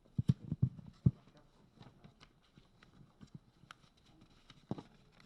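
A quick run of five or six dull knocks in the first second, then scattered faint clicks and one more knock near the end.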